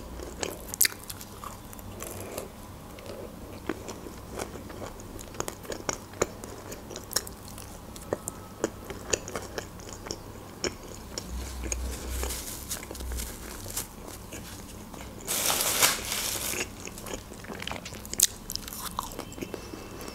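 Close-up eating of shawarma: biting and chewing with wet mouth clicks and soft crunches. About fifteen seconds in comes a broad hiss lasting about a second and a half.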